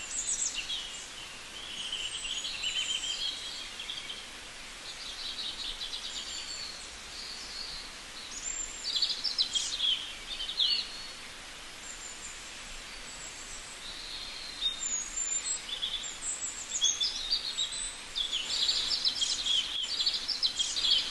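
Small birds chirping and twittering, many short high calls and quick trills coming one after another and overlapping, busiest near the end, over a steady faint hiss.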